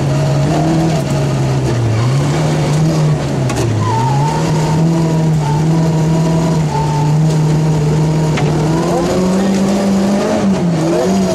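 Rally car engine heard from inside the cabin at stage speed, its revs dipping twice in the first few seconds as the driver lifts off, then holding steady and stepping up about nine seconds in.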